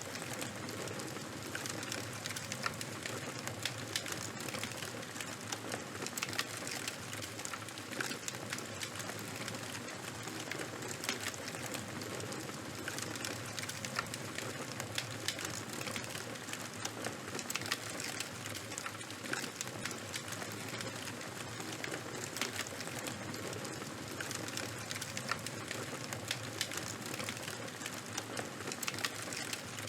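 Charcoal and wood fire crackling steadily: a soft, even hiss with many small, sharp pops scattered throughout.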